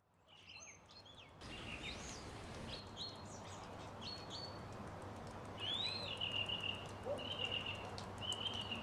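Birds chirping over a faint steady background hum, after a near-silent first second or so. From a little past the middle, one call sweeps up and then holds a fluttering note, three times.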